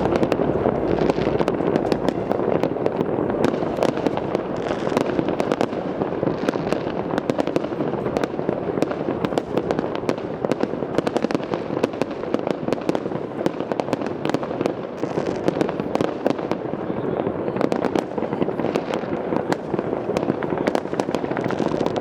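Fireworks and firecrackers going off in a dense, continuous barrage: rapid overlapping bangs and crackles with no pauses.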